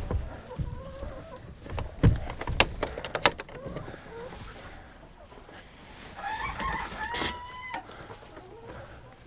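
A rooster crows once, a long held call starting about six seconds in, among clucking hens. A few sharp clicks and knocks sound a couple of seconds in.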